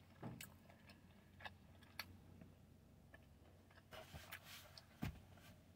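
Near silence broken by a few faint, scattered clicks of someone chewing a soft tortilla wrap with the mouth closed.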